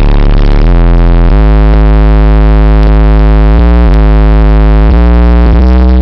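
Bass-heavy electronic music with sustained synthesizer notes, played very loud through a competition car audio system. The deep bass notes step to a new pitch every second or two.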